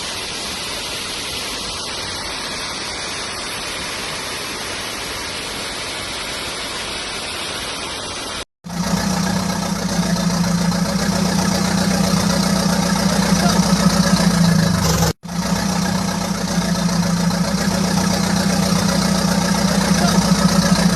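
Rushing floodwater, a steady even hiss, for the first eight seconds or so; then, after an abrupt cut, an engine running steadily at idle with a low, even drone, broken once more by a brief cut.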